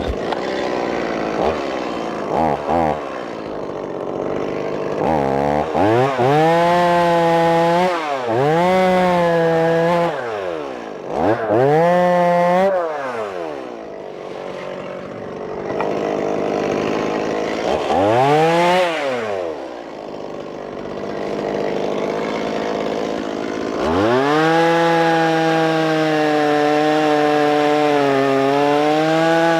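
Stihl MS 170 two-stroke chainsaw started and idling, then revved up and let fall back several times. In the last few seconds it is held at high revs cutting through the tree limb, its pitch dipping slightly under load.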